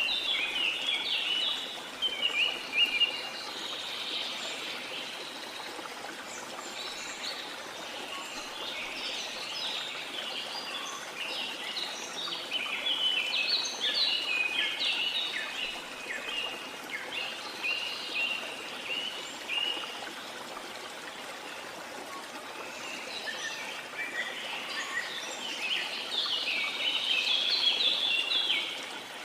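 Small songbirds chirping and twittering in busy flurries over a steady wash of water. The chirping thins out in between and is loudest near the start and near the end.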